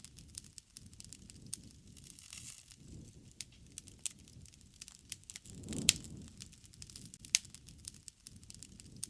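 Wood fire burning, with irregular crackles and sharp pops over a soft low rumble of flame. The loudest pops come about six and seven seconds in.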